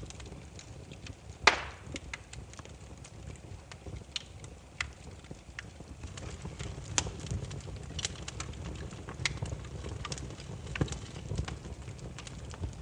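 Wood fire burning, the logs crackling and popping at irregular moments, with one loud pop about one and a half seconds in, over a low steady rumble.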